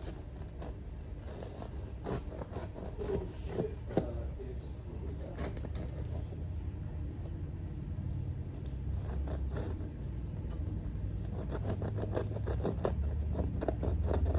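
A knife sawing and scraping through a hot, crisp-crusted loaf of bread, in short irregular scratchy strokes.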